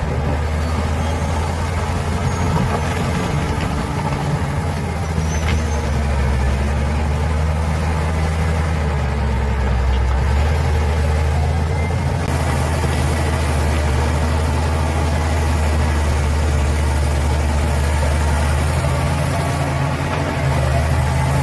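Bulldozer's diesel engine running steadily with an even low drone.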